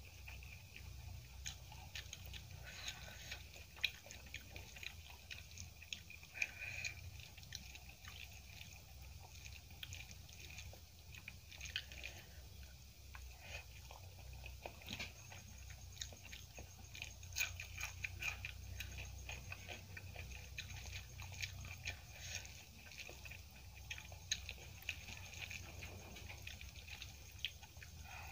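Close-miked eating sounds: mouthfuls of rice, potato curry and crushed papad being chewed, with many small irregular wet clicks and light crunches. Fingers mix the rice on the plate between mouthfuls.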